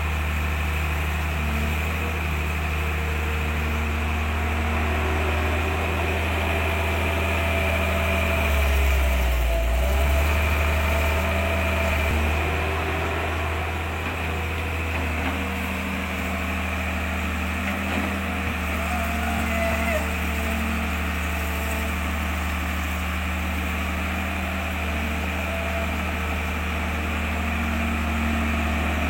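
A running motor hums steadily, with a slight swell about nine seconds in.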